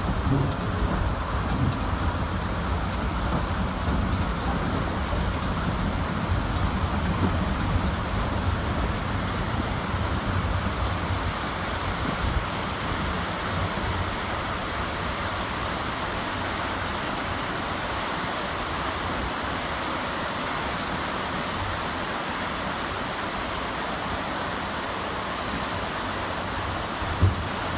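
Steady rumble and rail noise of a preserved steam-hauled passenger train's carriage running along the track, heard at the open carriage window; the deep rumble eases about halfway through, and there is a single knock near the end.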